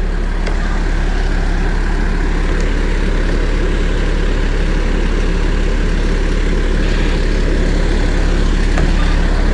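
Fire truck's diesel engine idling steadily close by, a deep even hum with no revving.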